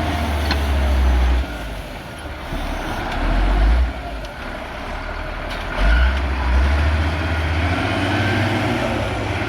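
The six-cylinder diesel of a CAT 140G motor grader working under load as the blade spreads piles of material. Its low rumble eases about a second and a half in and swells back twice, strongest from about six seconds on.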